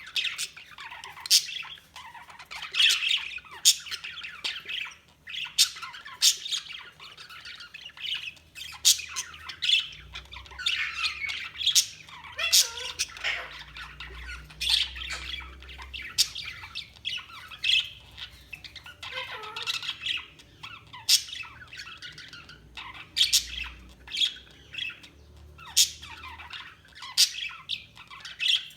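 Budgerigars chattering and chirping, with frequent sharp squawks and warbles throughout.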